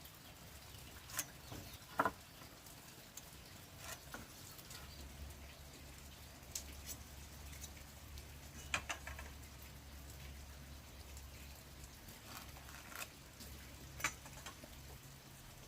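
Scattered light taps and clicks, about a dozen, spaced irregularly, over a faint steady low hum.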